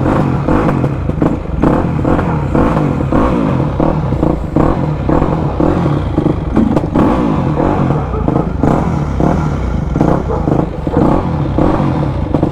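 Yamaha YZ250 two-stroke single-cylinder dirt bike engine running and being revved, its note surging up and down repeatedly.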